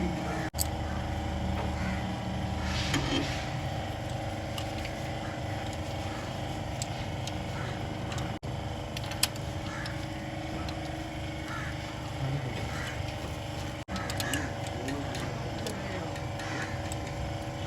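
Steady drone of a running motor or engine, with occasional sharp clicks and knocks.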